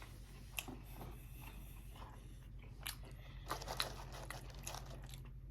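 A person chewing food close to the microphone, with a few short crunchy bites, over a steady low hum.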